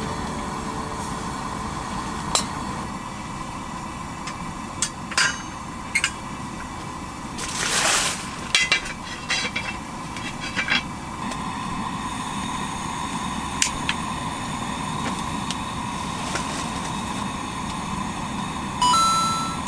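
Scattered knocks and clinks of camp cooking gear being handled, with a short rustling burst about eight seconds in and a brief tone near the end, over the steady hum of a fan heater.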